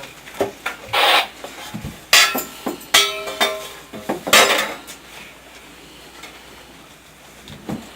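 Metal scraping and clattering in a handful of short bursts over the first few seconds, one with a brief metallic ring, then quieter.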